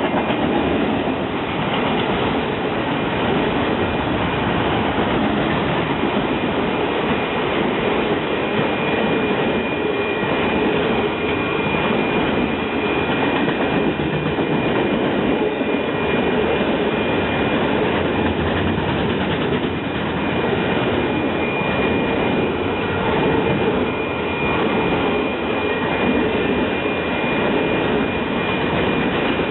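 A train rolling past on the track, a steady loud noise of wheels on rail, with a thin high wheel squeal held through much of it, strongest in the second half.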